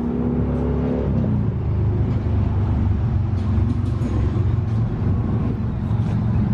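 A motor vehicle running: a loud, steady low rumble, with a steady hum over it for the first second or so.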